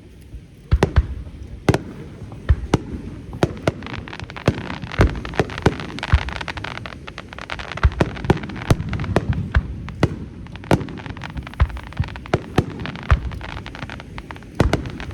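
Aerial firework shells bursting in quick succession at a fireworks display: many sharp booms, about one or two a second, with a continuous crackle and rumble between them. The booms start about a second in.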